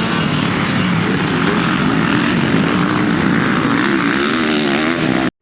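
Single-cylinder four-stroke 450 motocross bike engine running hard under riding, its pitch rising and falling with the throttle; it cuts off suddenly near the end.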